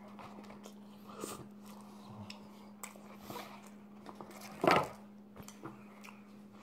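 A man chewing food with small soft mouth and handling noises over a steady low hum. A short pitched vocal sound comes about two-thirds of the way through.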